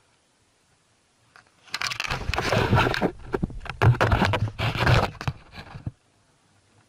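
A burst of rough scraping and knocking on a fishing kayak, starting a little under two seconds in and lasting about four seconds.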